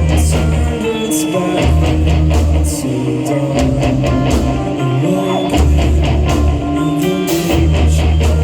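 Live rock band playing: electric guitars, bass and drum kit, with some singing.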